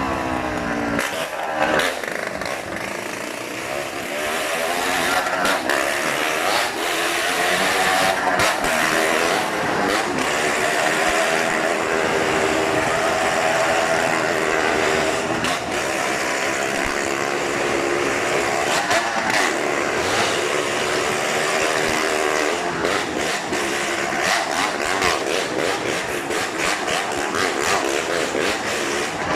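Motorcycle engines riding a Wall of Death, revving up and down over and over as they circle the wooden drum, with frequent sharp clicks and cracks.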